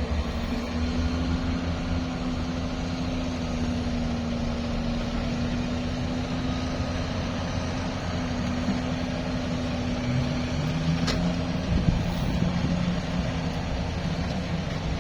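A motor vehicle's engine running steadily with a low rumble and hum; its pitch shifts about ten seconds in, and there is a single sharp click a little after.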